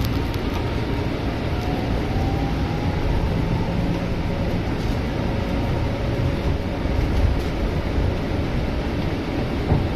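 Scania C250EB bus heard from inside the cabin while driving: a steady engine and road rumble with a faint whine that slowly shifts in pitch. A short knock sounds near the end.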